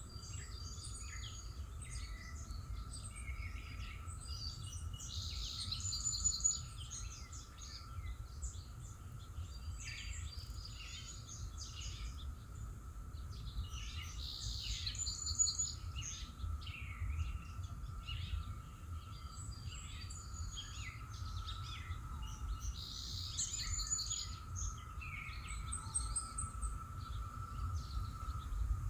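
Wild birds chirping and singing, with one louder song phrase coming back about every nine seconds. Beneath them run a steady low rumble and a faint steady high drone.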